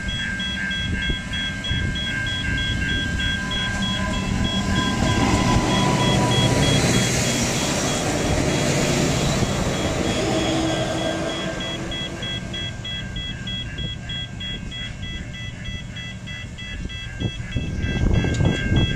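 Level-crossing warning alarm beeping rapidly and steadily while an Adelaide Metro 3000-class diesel railcar passes close by. The train's rumble and wheel noise are loudest about seven to nine seconds in, covering the beeps, and then fade as the beeping comes back.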